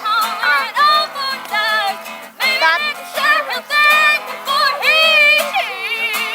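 Acoustic guitar playing with high voices singing along in short, wavering phrases.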